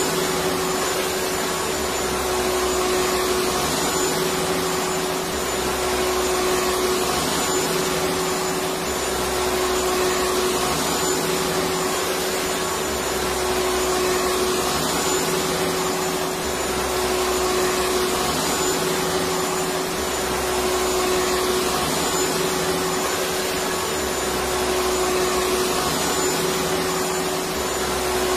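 Electric vacuum cleaner running continuously: a steady rush of air with a constant motor hum, the low end swelling and easing gently every few seconds.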